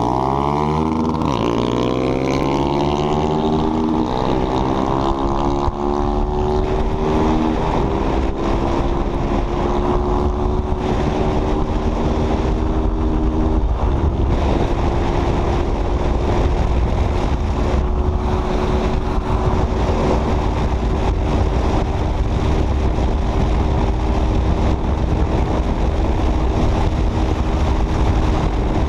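Single-cylinder motorcycle engine at full throttle, rising in pitch through the gears with upshifts about 4, 7 and 14 seconds in, then running flat out at a steady high pitch near top speed. Heavy wind noise on the microphone underneath.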